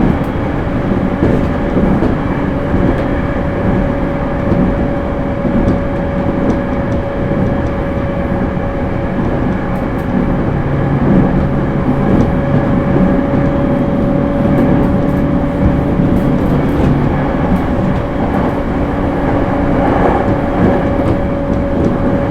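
JR East E231 series suburban electric train with Hitachi IGBT inverter drive, running at a steady speed: wheels rumbling on the rails under a steady hum.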